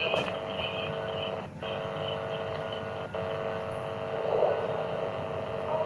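A steady background hum with a few level tones in it, dropping out for an instant twice.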